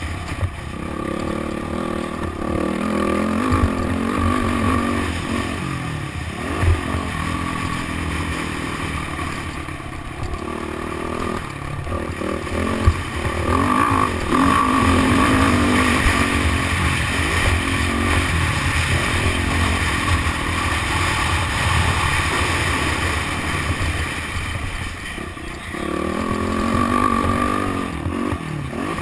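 Motocross bike engine revving up and down as it is ridden around the track, its pitch rising and falling throughout, with clatter and a few sharp knocks from the bike over the dirt.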